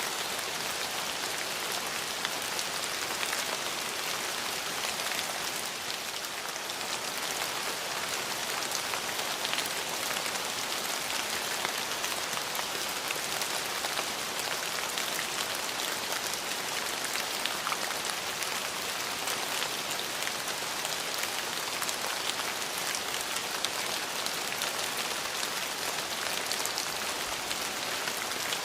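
Steady rain falling, an even hiss of rain on surfaces with many small drop patters.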